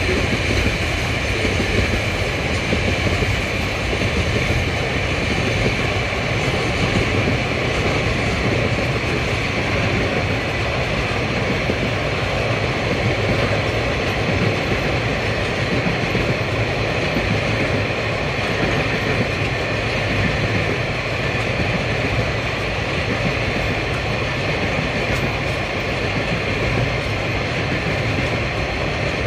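Freight train's wagons rolling past on the rails, container flat wagons and then empty log wagons, in a steady, unbroken rolling noise of wheels on track.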